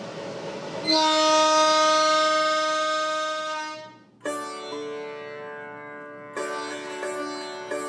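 A train whistle blows one long, steady note for about three seconds and fades out. Sitar music then begins.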